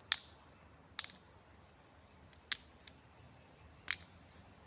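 Campfire of damp wood crackling: four sharp pops at uneven intervals over a low background.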